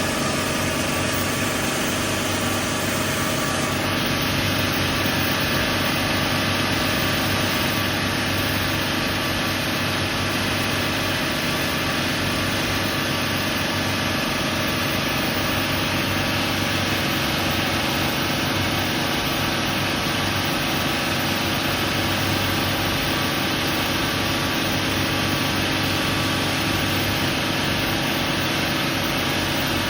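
Bayliner 4788 motor yacht's twin diesel engines running steadily under way, a constant drone with no change in speed.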